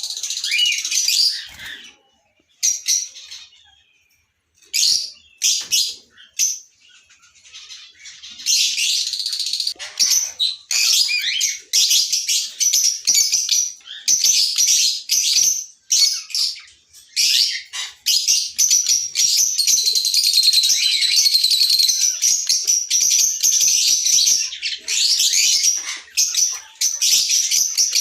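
Lovebirds chirping and chattering in shrill, rapid calls. The calls come in short bursts with pauses for the first several seconds, then run as almost unbroken chatter from about eight seconds in.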